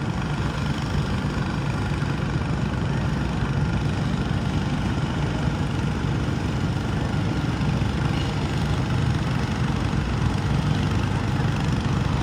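Garden tractor engine running steadily at a fairly even pitch.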